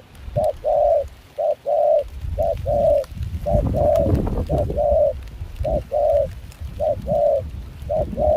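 Spotted dove cooing. It repeats a short note followed by a longer one about once a second, over a low wind rumble on the microphone.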